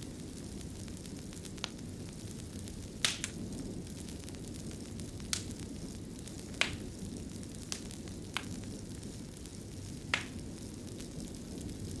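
Wood fire burning in a fireplace: a steady low rush of flames with sharp pops and crackles every second or two, the loudest about three seconds in, past the middle, and about ten seconds in.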